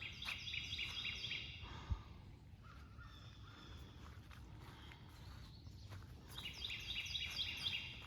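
A bird calling in two quick bouts of rapidly repeated high notes, one at the start and another about six seconds in. A single dull thump about two seconds in.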